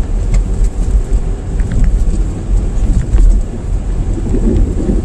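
Car driving on a highway, heard from inside the cabin: a steady, loud low rumble of road and engine noise.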